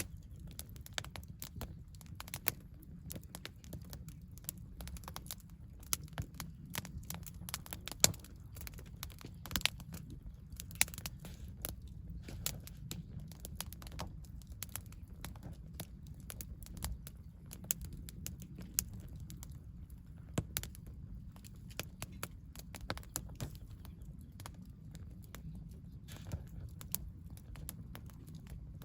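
Wood campfire crackling: irregular sharp snaps and pops, a few much louder than the rest, over a low steady rumble.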